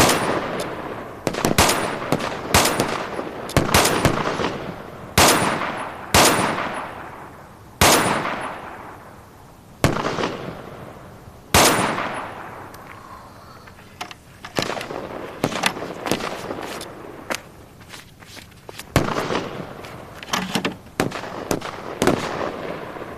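Rifle shots on a firing range, single shots at irregular intervals of a second or two, each with an echoing tail. The shots grow fainter and more scattered in the second half.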